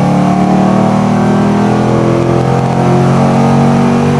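Ford Mustang GT's 4.6-litre three-valve V8 pulling hard under heavy throttle through a Flowmaster Super 10 exhaust with an H-pipe. The engine note is loud and climbs slowly as the car accelerates within one gear.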